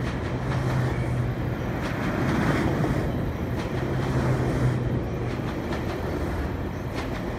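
GO Transit bilevel commuter coaches rolling past on the rails, a steady rumble of wheels with a low hum that comes and goes and a few faint clicks.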